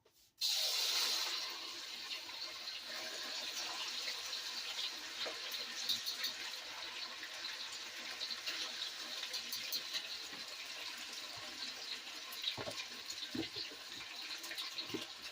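Marinated chicken slices sizzling in hot oil in a wok. The sizzle starts suddenly and loudest as the meat goes in, then settles to a steady crackling sizzle, with a few knocks near the end.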